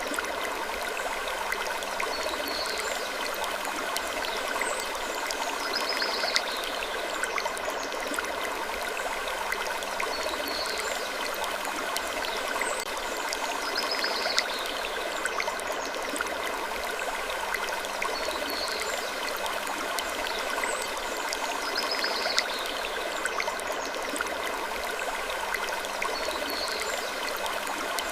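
Wood creaking gently and repeatedly, a soft creak every couple of seconds over a steady rushing background.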